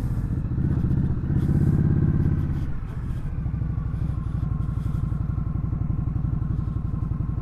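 Indian Scout Sixty's V-twin engine running while riding, louder for the first few seconds, then dropping in level about three seconds in and running on steadily.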